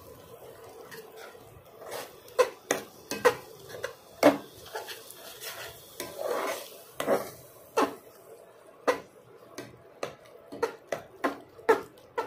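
A metal spoon stirring in a cooking pot, with irregular clinks and knocks against the metal and a few scrapes, starting about two seconds in.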